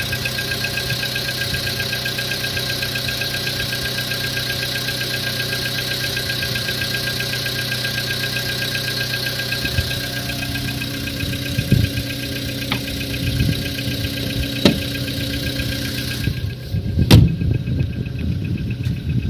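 Volkswagen Jetta engine idling with a fast, even knock, the engine knock the owner is recording. Near the end the sound changes abruptly, with a loud sharp click and a few dull thumps.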